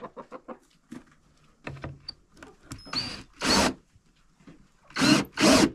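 Cordless drill driving small wood screws in short bursts, about four spurts in two pairs in the second half, with light tapping and handling before them.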